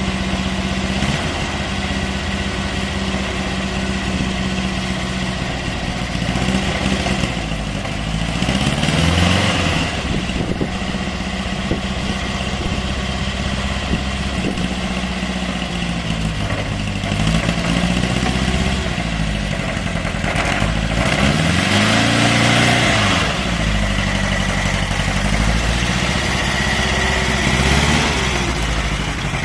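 Air-cooled engine of an old Ukrainian car running after standing unused for several years, revved up and falling back several times between stretches of steady running.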